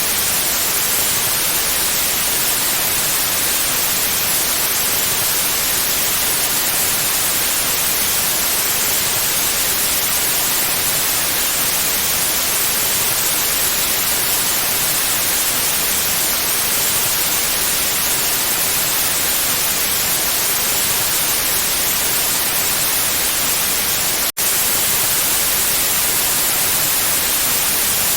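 Steady, even white-noise hiss, strongest in the high frequencies, with a split-second dropout a few seconds before the end.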